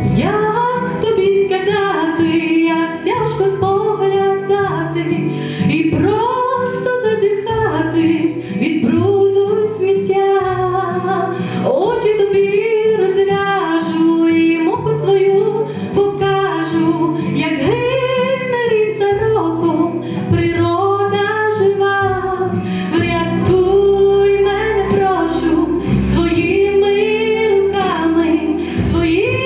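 A song: a female voice singing over instrumental accompaniment.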